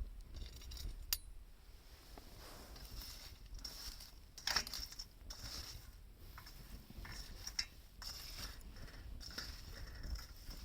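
Wood fire burning with scattered crackles and sharp pops, the loudest snaps about a second in and again about four and a half seconds in, over a faint steady hiss.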